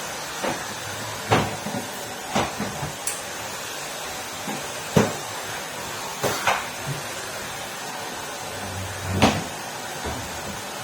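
Numatic Henry vacuum cleaner running with a steady hiss, under sharp knocks every second or two.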